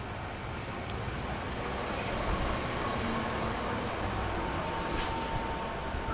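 A train approaching along the track, its rumble growing steadily louder, with a steady high tone coming in near the end and a shrill high-pitched squeal about five seconds in.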